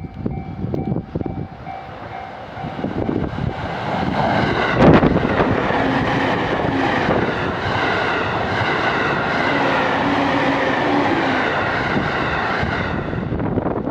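A JR East E231 series 1000 electric multiple unit passing at speed over a level crossing, heard close up. Wheels run over the rails with a loud thud about five seconds in as the train reaches the crossing, and a steady whine from the traction motors carries on as the cars go by, dying away near the end. At first, before the train arrives, a level-crossing alarm sounds its steady repeating tones.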